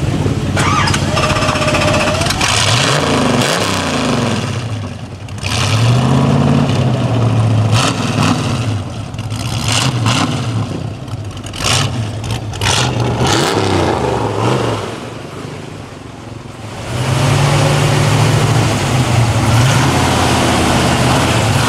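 Loud V8 muscle car engines revving as the cars drive off, the engine note rising and falling again and again.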